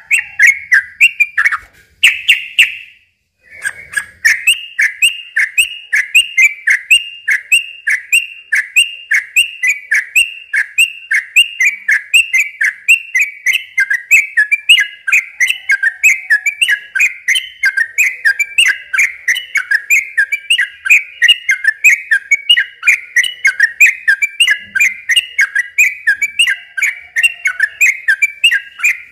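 Yellow-vented bulbul (trucukan) singing a long, rapid run of repeated loud chirping notes, about four a second, broken once by a short pause about three seconds in.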